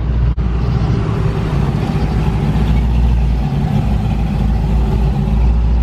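Car engine running at a steady idle close by, a low continuous exhaust rumble.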